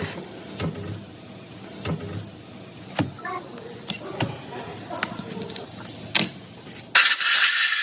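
Workshop sounds of engine assembly: scattered metallic clicks and knocks from tools and parts, then a sudden loud spraying hiss, like compressed air, starting near the end.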